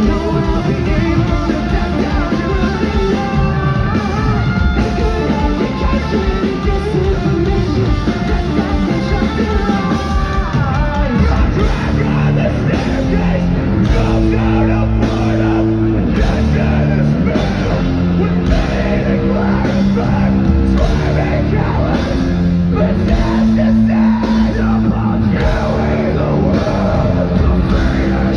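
Loud rock music with sung and yelled vocals over guitars.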